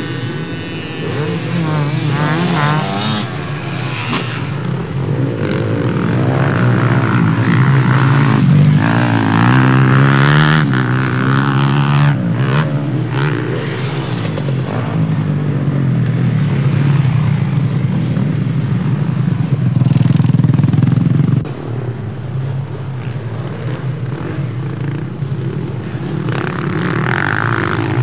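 Several motocross bikes racing, their engines revving up and down over one another. The engine noise eases somewhat about three-quarters of the way through.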